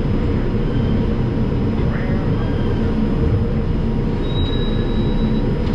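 Steady low rumble inside an R142 subway car, with a thin high tone for about a second near the end.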